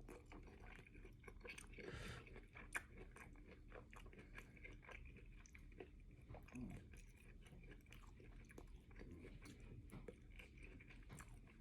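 A person chewing a mouthful of teriyaki chicken and rice close to the microphone: soft, irregular wet clicks and crunches of chewing.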